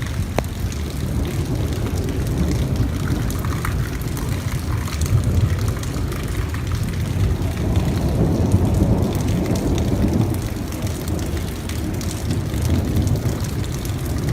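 Steady rain in a thunderstorm: a continuous rushing noise with a deep rumbling low end that swells and eases over the seconds.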